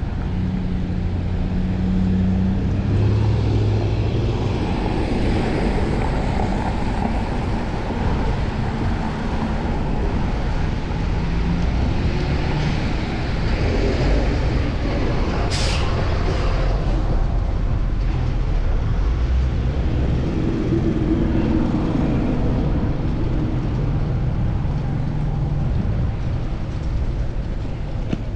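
City street traffic heard from a moving bicycle: a steady rumble of vehicle engines and wind on the microphone, with one short, sharp hiss of a bus or truck air brake about halfway through.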